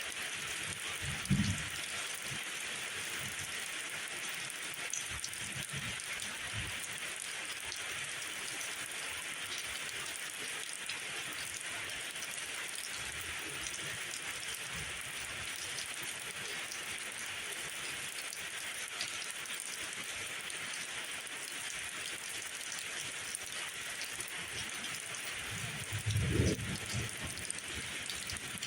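Steady rain falling, an even hiss, with a short low thump about a second in and another near the end.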